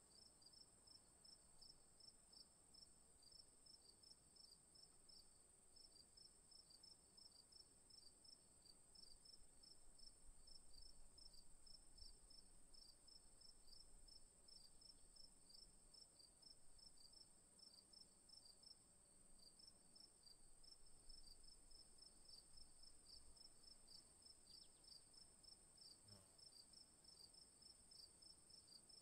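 Near silence except for faint insects: a steady high-pitched trill with a rapidly repeating chirp beneath it.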